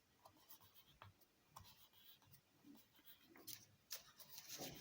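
Faint rustling and light crinkling of origami paper being handled and creased by hand, in short scattered scrapes and ticks that grow a little busier in the second half.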